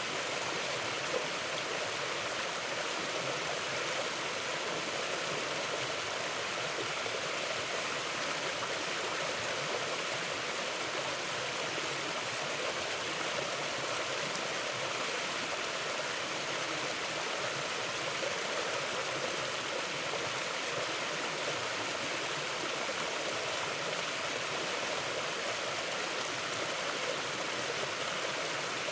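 Stream water flowing over rocks, a steady rushing and burbling.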